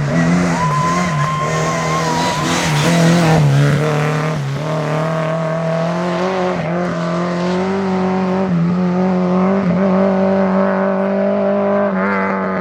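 Rally car engine running hard at high revs, its pitch wavering and dipping through the first few seconds, then held nearly steady.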